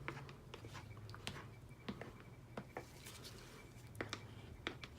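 Faint, scattered clicks and light scraping of a chopstick knocking against the sides of a soap mold as it is swirled through the soap batter.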